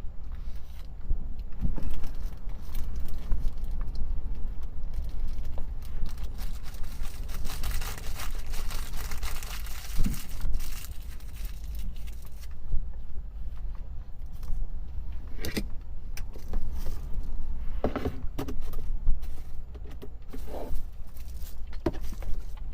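Wind buffeting the microphone as a steady low rumble, with scattered clicks, knocks and rattles. A stretch of hiss comes about six to twelve seconds in.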